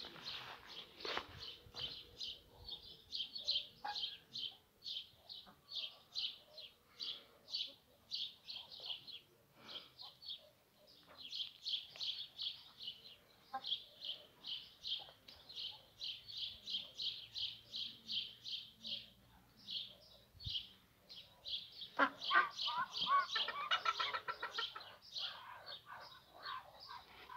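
A small bird chirping over and over, short high-pitched peeps about two to three a second, with a louder, lower bird call about three quarters of the way in.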